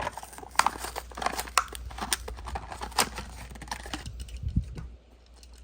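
A Hot Wheels blister pack being torn open: the plastic blister crinkles and the cardboard card tears, in a quick run of crackles and snaps that stops about five seconds in.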